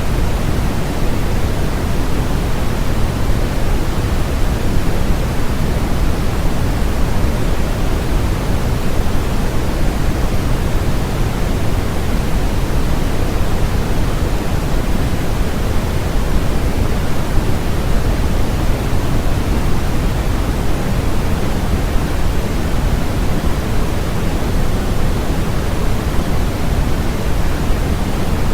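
Steady, unchanging synthetic noise with no breaks or events. It is heaviest in the bass and thins toward the treble, closer to pink noise than flat white noise.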